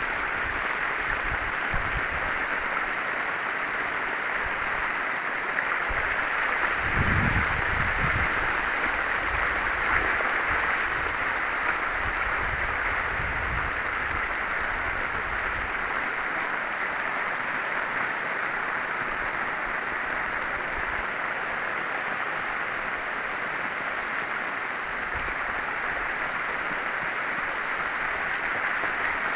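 Heavy rain pouring down in a steady, dense hiss, with a brief low rumble about seven seconds in.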